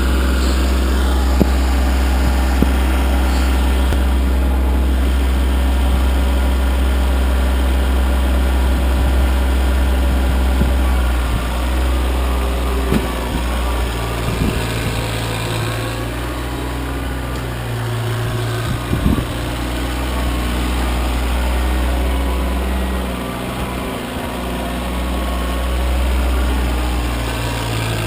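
Kioti CK25 compact tractor's three-cylinder diesel engine running steadily under load while clearing snow. Its note shifts about eleven seconds in, and a few short knocks come in the second half.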